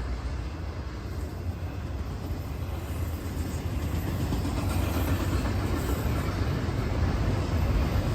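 A train passing: a steady rumble of wheels and rail noise that grows gradually louder through the second half, with no horn sounding.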